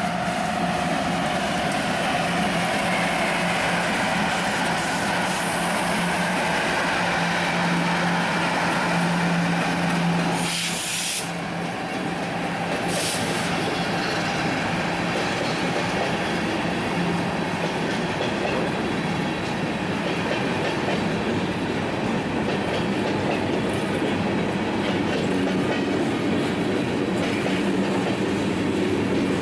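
Railroad cars rolling past with a continuous wheel rumble and clickety-clack over the rail joints. A short burst of high hiss comes about eleven seconds in.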